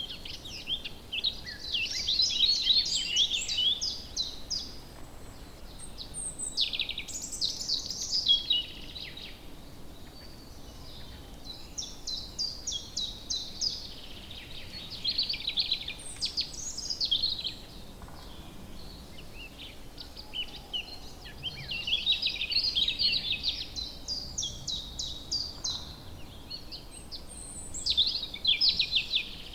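Woodland songbirds singing: phrases of rapid high notes, some as fast trills, recur every few seconds over a faint steady background hiss.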